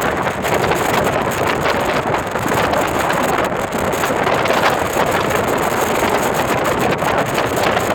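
Strong wind blowing across the microphone, a loud steady rushing noise without any pitch.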